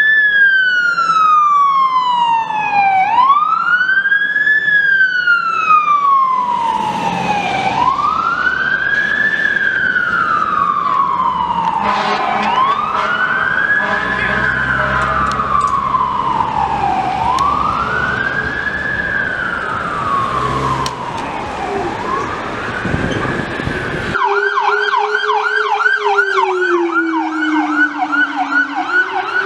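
Fire department vehicle's electronic siren on a slow wail, each rise and fall taking about four and a half seconds. About 24 seconds in it switches abruptly to a fast yelp of about three sweeps a second, over a lower tone that slowly sinks and then climbs again.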